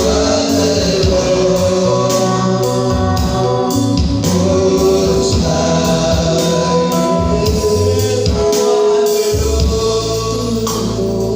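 Gospel worship music: a choir singing over a backing of held bass notes.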